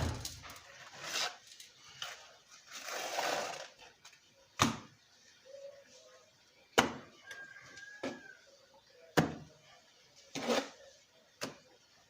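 Hand plastering with cement mortar: a series of sharp slaps and knocks roughly every two seconds as mortar is thrown from a trowel onto brickwork, with a short stretch of scraping about three seconds in.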